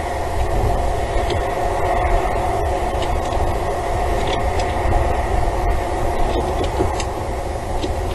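Steady rumbling hum with a few faint ticks scattered through it.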